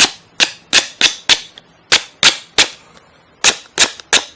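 Sharp, hard knocks about a dozen times in quick runs of three or four, from a soldering gun's tip being cleaned of melted plastic residue.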